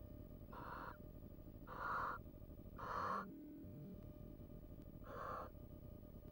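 Barn owl calling: four short, harsh, hissing calls about a second apart, with a longer pause before the last one.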